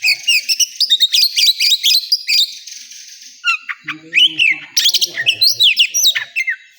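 Oriental magpie-robin (kacer) singing a fast, varied song of sharp chirps and gliding whistles. The song breaks off briefly about three seconds in, then resumes.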